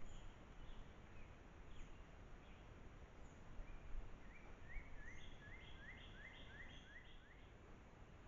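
A songbird singing faintly: a few scattered chirps, then a run of about nine quick rising notes, roughly three a second, over a low steady background hiss.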